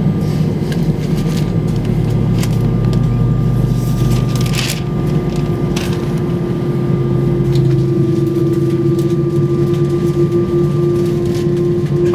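Airbus A320 cabin ambience: a steady hum from the aircraft's air systems with a constant tone that grows stronger in the second half, and a few light clicks.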